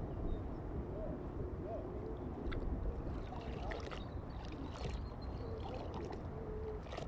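Riverside outdoor ambience: a steady low rumble of wind on the microphone and light water sounds, with scattered small clicks and a few faint short chirps.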